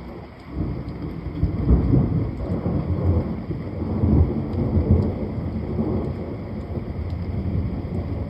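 A long rolling peal of thunder over steady rain: the rumble builds about half a second in, swells with several loud surges, then slowly dies away while the rain hiss goes on.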